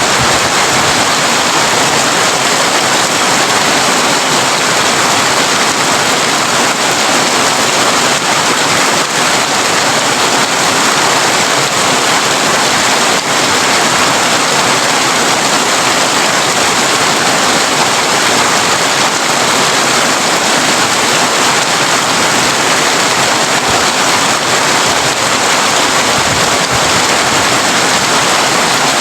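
Heavy rain falling steadily on a tin roof, a dense even hiss of drops with no break.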